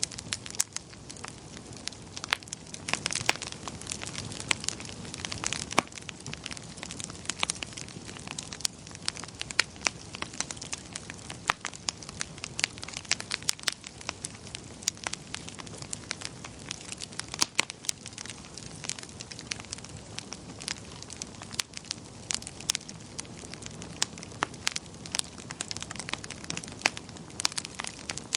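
Wood fire burning in a fireplace, crackling and popping with many sharp, irregular snaps over a steady low rush of flame.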